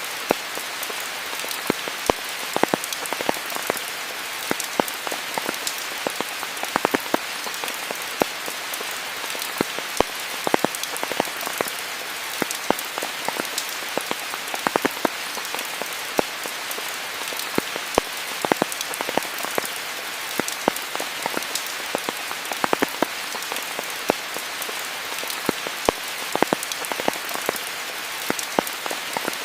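Steady rain falling, a continuous hiss with many individual drops pattering and clicking close by throughout.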